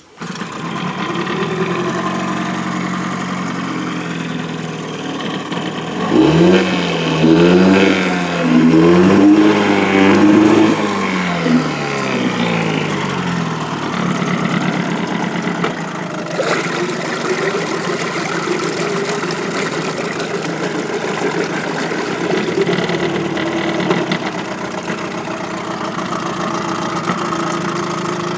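Old Mercury 6 hp two-stroke outboard motor catching at once and running, revved up and down several times from about six to eleven seconds in, then settling back to a steady idle. It starts without trouble and runs smoothly.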